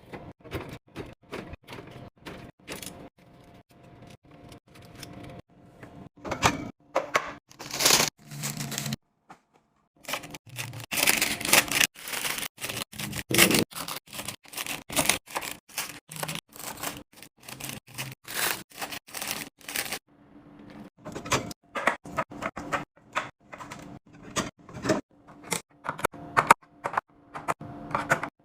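Quick clicks, taps and clatter of food containers and packaging being handled and set down while a fridge is restocked, with a faint steady hum underneath. The clatter stops briefly about nine seconds in, then carries on.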